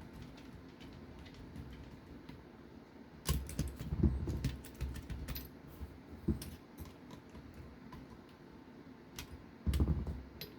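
Scattered light clicks and taps of small RC car parts and a hand driver, as a nut is run onto the rear bearing assembly, with louder handling noise a few seconds in and again near the end.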